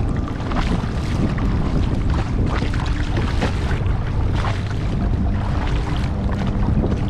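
Kayak paddle splashing in the water and water lapping at the hull in irregular short splashes, over a steady low rumble of wind on the microphone.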